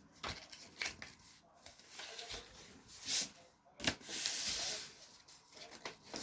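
Sheet of paper being folded and creased by hand: short crinkles and crackles, with a longer rubbing sound about four seconds in as a fold is pressed flat.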